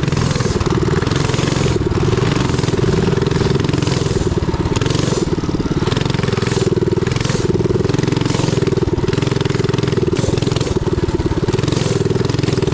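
Minibike engine running steadily under way, its pitch wavering slightly with the throttle, with a hiss that rises and falls every second or so over it.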